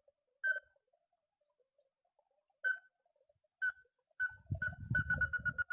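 Call of a tikusan crake: single clear piping notes a second or two apart, then quickening into a rapid, even series of the same note about four seconds in. A low rumbling noise joins as the series starts.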